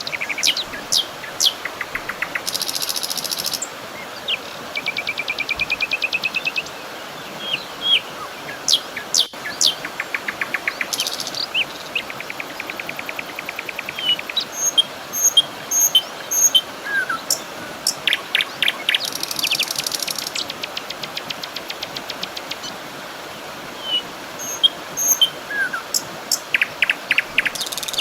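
Several birds calling and singing at once, with short chirps, whistled notes and fast trills overlapping throughout, over a steady background hiss.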